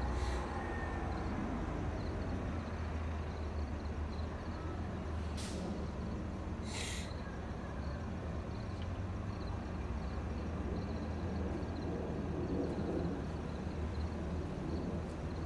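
Low, steady rumble of a distant approaching train over outdoor background noise, with two short hisses about five and seven seconds in.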